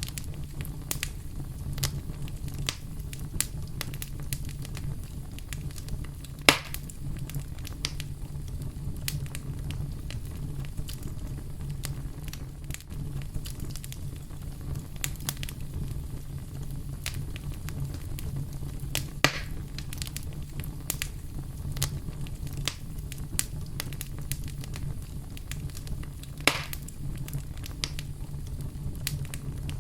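Campfire crackling, with frequent small pops and three louder sharp cracks spread through, over a steady low rumble.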